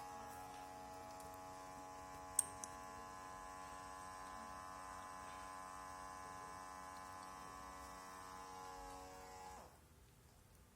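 Small electric motor humming steadily with a pitched buzz, cutting off suddenly about nine and a half seconds in, with a single sharp click about two and a half seconds in.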